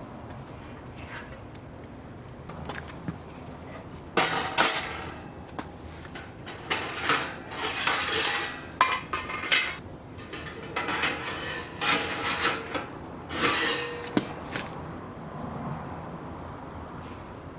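Metal clattering and scraping in a run of short, uneven bursts from about four seconds in until near the end, like cookware or utensils being handled on a metal surface.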